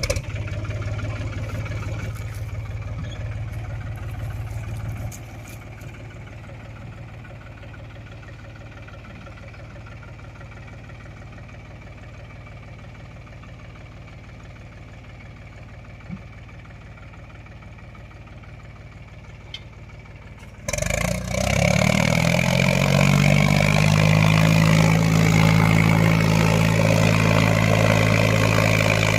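Mahindra tractor's diesel engine idling steadily, its level dropping slightly about five seconds in. About two-thirds of the way through it suddenly gets much louder as the engine revs up, its pitch rising, then it keeps running steadily at the higher speed.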